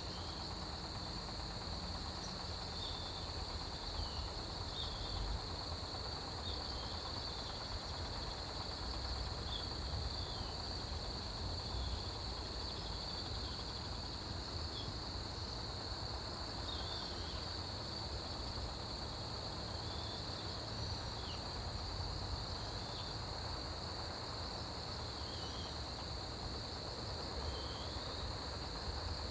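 Autumn crickets and other grass insects chirping together: one steady high trill with a faster, pulsing chirp above it and scattered short chirps, over a faint low rumble.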